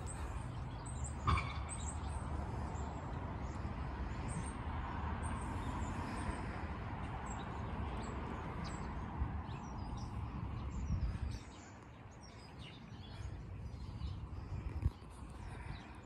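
Songbirds chirping and twittering, many short high calls throughout, over a low rumble that falls away about two-thirds of the way through. A sharp knock about a second in is the loudest moment.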